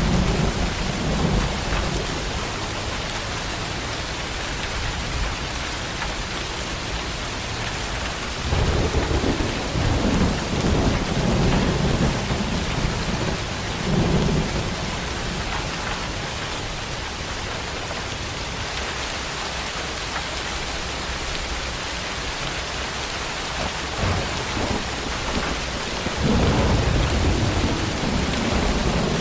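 Steady heavy tropical rain with thunder rumbling low over it: at the start, again for several seconds from about a third of the way in, and once more near the end.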